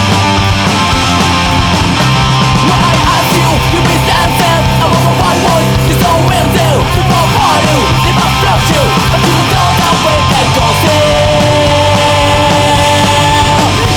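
Melodic punk/hard rock band playing: distorted guitars, bass and drums at full volume, with a lead melody sliding up and down in the middle and two long held notes near the end.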